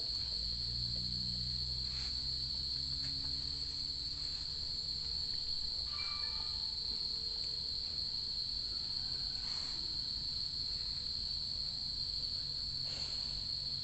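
Night insects, crickets, chirring in one steady, continuous high-pitched drone. A low rumble sits under it for the first few seconds.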